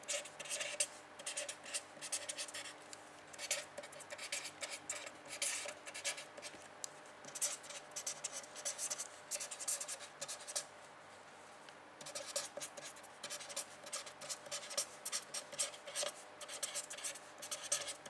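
Pen scratching across a writing surface in quick, irregular strokes, writing out a line of text, with a short pause partway through.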